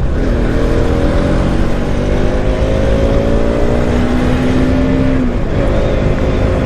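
Motorcycle engine accelerating hard to overtake, its pitch climbing steadily for about five seconds, then dropping as it shifts up a gear and running on steadily, under constant wind rush.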